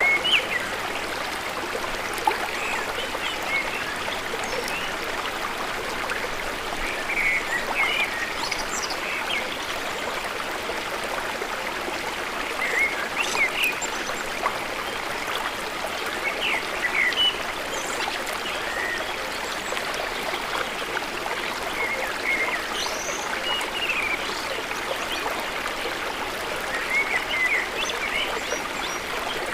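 Small forest waterfall running steadily, an even rush of falling and splashing water. Short high chirps come through now and then over the water.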